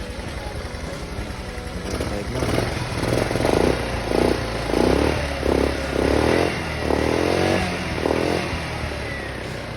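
Rusi Venus SC125 scooter's single-cylinder four-stroke engine running after a valve, carburettor and spark plug overhaul. Its throttle is blipped in a quick series of short revs from about two seconds in until near the end.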